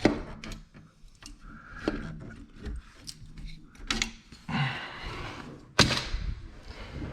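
Knocks and clanks of metal scaffolding parts being handled and fitted, a few sharp strikes spread out with a loud knock about six seconds in.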